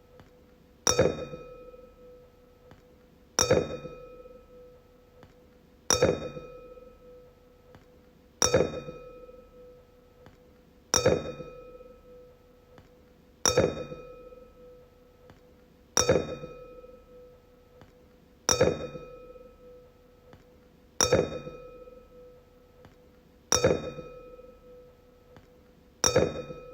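A wine glass struck again and again, about once every two and a half seconds, each strike ringing out at one clear pitch with higher overtones and dying away before the next.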